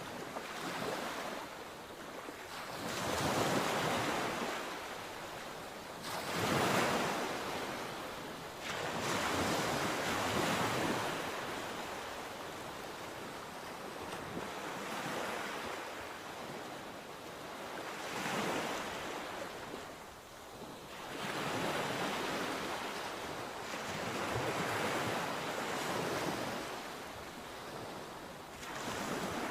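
Sea waves breaking and washing ashore, the surf swelling and fading every few seconds.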